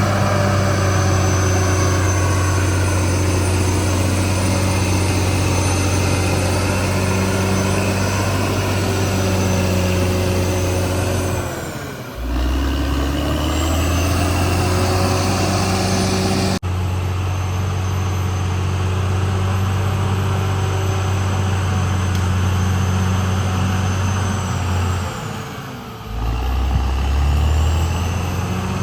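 Caterpillar D6R XL bulldozer's diesel engine running hard and steadily under load. Its note sags and recovers twice, about twelve seconds in and again near the end, as the load on the engine changes.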